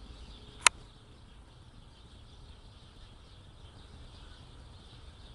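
A single sharp click less than a second in, then faint steady outdoor background noise with a low rumble.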